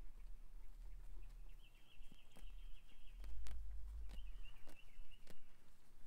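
A bird trilling twice, a high warbling trill of about two seconds, then another of about a second, with a few sharp clicks and a low rumble beneath.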